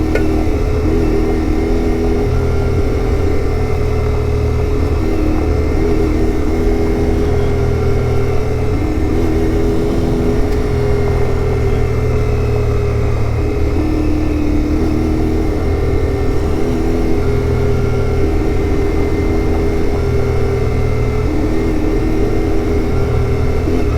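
CFMoto 450MT parallel-twin motorcycle engine running under way, its note rising and falling every few seconds with the throttle.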